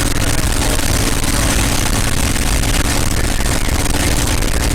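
North American P-51 Mustang's Merlin V-12 engine running steadily at run-up power during the pre-takeoff magneto check.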